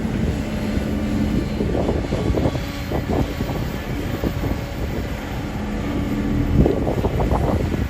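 Kobelco excavator's diesel engine running steadily with a humming tone. Irregular rough bursts of noise come twice, about two seconds in and again near the end.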